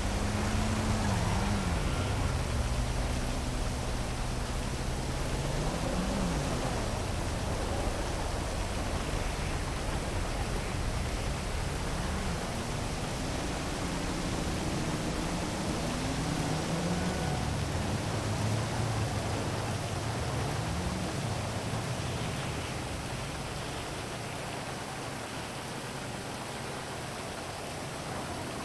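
Heavy rain falling as a steady hiss, with the low hum of city traffic rising and falling in pitch several times underneath.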